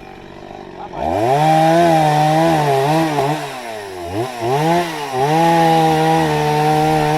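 Chainsaw engine revving up to high speed about a second in, then running hard with several brief dips in pitch that recover at once, as under cutting load or throttle changes.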